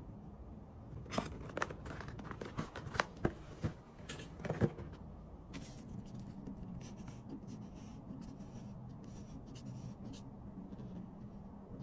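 Hands handling goods and packaging: scattered light taps, scrapes and rustles, busiest in the first five seconds, then only a few faint ticks over a low steady background.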